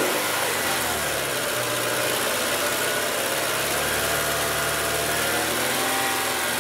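Scion tC's 2.5-litre four-cylinder engine brought up from idle about a second in and held steady at a raised speed of about 2500 rpm, the engine speed the battery tester asks for during an alternator charging test.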